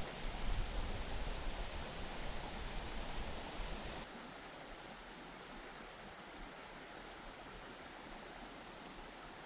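Steady, high-pitched insect chorus of crickets, over a faint even hiss. A low rumble during the first four seconds stops suddenly.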